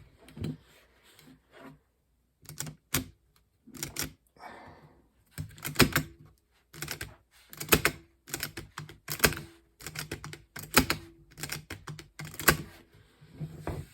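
Irregular clicks and knocks of a floppy drive's small metal and plastic parts being handled and worked on, some coming in quick pairs.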